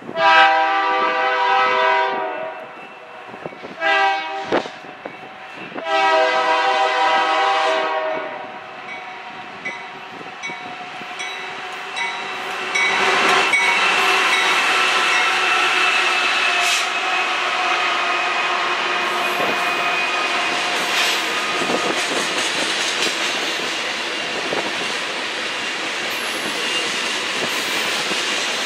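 Freight locomotive air horn sounding three blasts, long, short, long, as a train approaches. About twelve seconds in, the train's passing takes over: a steady rumble of rolling wheels with rail clicks and a faint high wheel squeal.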